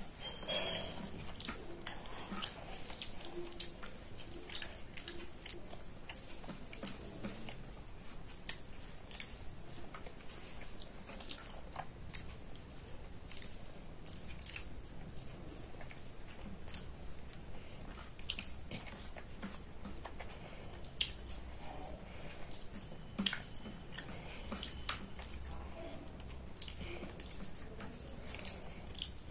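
Child chewing and smacking her lips while eating chicken and rice by hand: a steady run of short wet clicks, with one sharper click about three-quarters of the way through.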